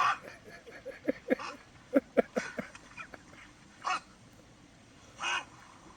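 A dog yipping and whimpering in short, irregular calls.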